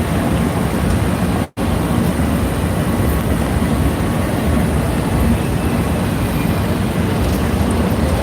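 Steady rumble of street traffic and vehicle noise, with the sound cutting out for an instant about a second and a half in.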